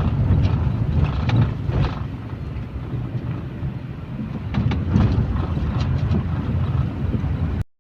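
A vehicle on the move: a steady, loud low rumble with scattered clicks and rattles. It cuts off suddenly near the end.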